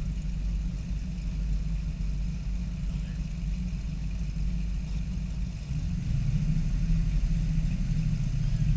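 A car engine idling with a steady low rumble, growing louder about six seconds in.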